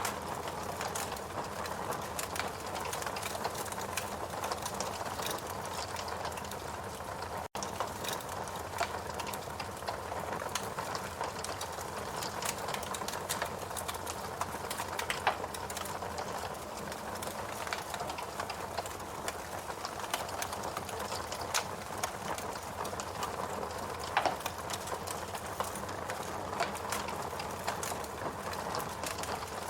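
Wood logs burning in a fireplace, crackling steadily with many small pops over a low hiss, a few sharper pops standing out.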